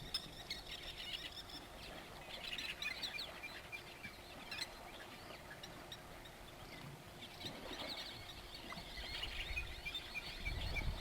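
Small birds chirping and twittering faintly in scattered short high calls. A low rumble starts to build near the end.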